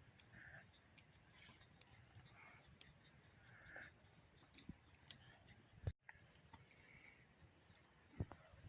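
Faint, steady high-pitched chirring of crickets or other insects, with a few soft knocks and a sharper one about six seconds in.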